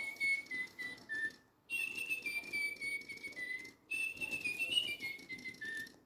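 Little Live Pets toy bird tweeting its electronic song: three short phrases of clear whistled notes that mostly step down in pitch, with brief pauses between them.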